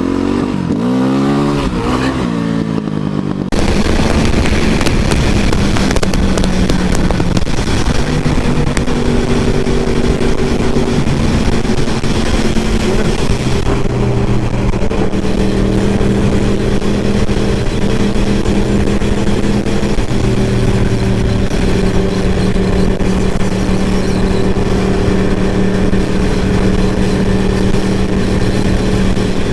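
A motorcycle engine revving in quick rising and falling sweeps. About three and a half seconds in, this cuts suddenly to the steady drone of a motor vehicle riding along, with wind and road noise and an engine note that steps up or down now and then.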